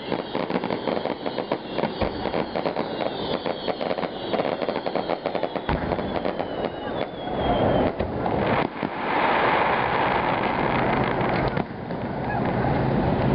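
Aerial fireworks going off: rapid crackling pops with a falling whistle, then a louder, denser wash of bursts from about eight seconds in.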